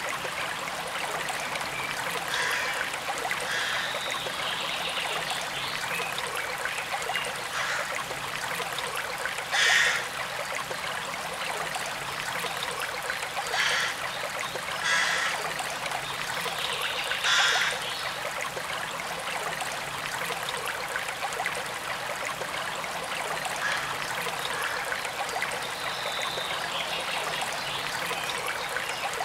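Small forest stream running steadily over stones, a bright trickling rush with a few louder splashes and gurgles about a third and halfway through.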